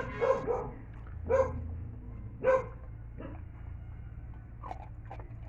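Bully-type pit bull barking in short, excited barks over her food: four loud barks in the first three seconds, then a few softer ones.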